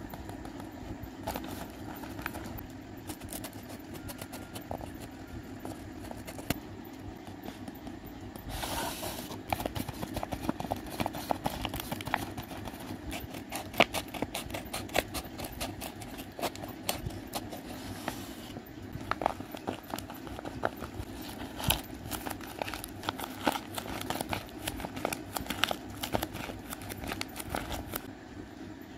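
A paper squishy being squeezed and handled: paper crinkling and crackling in quick, irregular bursts, busier from about nine seconds in, over a steady low hum.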